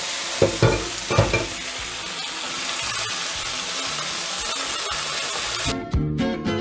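Sliced forest mushrooms sizzling in hot oil in a frying pan as they are stirred with a plastic spatula, with a few brief knocks of the utensil against the pan about a second in. Near the end the sizzle cuts off and guitar music comes in.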